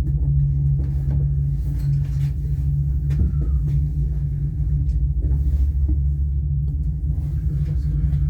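Steady low rumble and hum of a moving cable-car gondola heard from inside the cabin, with a few faint clicks over it.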